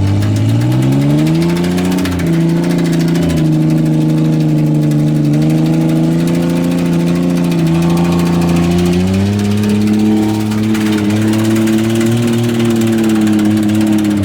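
V6 pickup engine revving up about a second in and held at high revs, stepping up higher around nine seconds in, then easing off at the very end.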